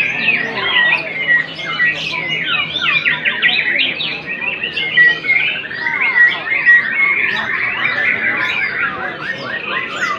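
Several white-rumped shamas (murai batu) singing at once, a dense, unbroken stream of overlapping quick chirps, trills and whistled notes.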